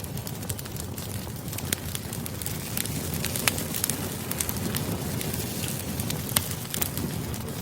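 Campfire crackling: frequent irregular sharp pops and snaps over a steady rush of burning.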